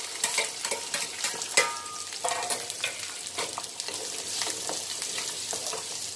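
Chopped onion and green chillies sizzling in hot oil in a steel kadhai, stirred with a wooden spatula that scrapes and knocks against the pan. One knock about one and a half seconds in sets the pan ringing briefly.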